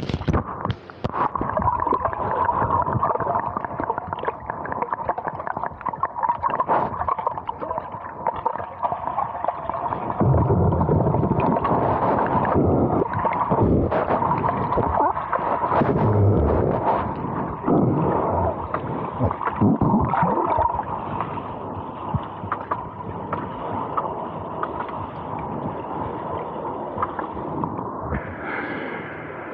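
Muffled underwater gurgling and water rushing, picked up by a submerged Insta360 Go 2 action camera's own microphone, with a steady hum through it. It grows louder in surges through the middle stretch and changes character near the end.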